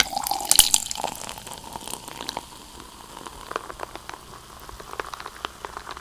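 Close-miked eating sounds of kimchi dumplings: dense crackling in the first second, then scattered wet clicks and smacks of chewing.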